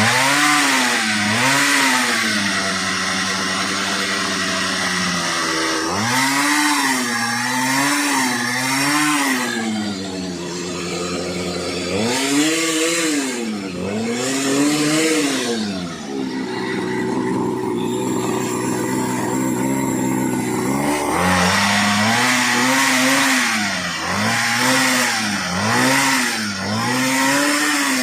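Small grass-cutter engine on a homemade scooter, revved up and down again and again in short rises of pitch, with stretches of steadier running between the bursts of revving.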